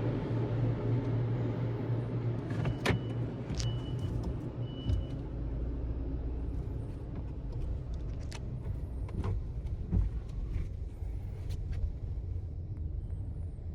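A car's engine running with a steady low rumble. Three short high electronic beeps come between about three and five seconds in, and sharp clicks and knocks are scattered through.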